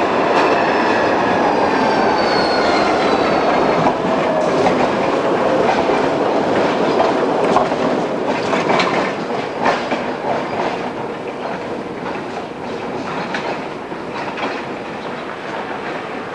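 Electric tram running on the rails: a whine falling in pitch over the first few seconds, then the wheels clicking over rail joints as the sound slowly fades away.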